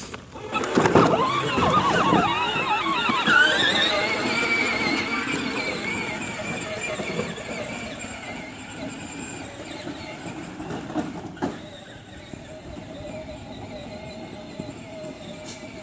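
Riding tractor's motor whining as it gets going, rising in pitch over the first few seconds, then holding steady and slowly fading. A single click near the end.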